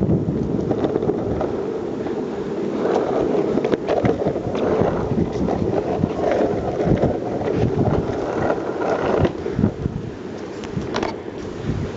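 Longboard wheels rolling over pavement: a steady rumble broken by frequent small clicks and knocks.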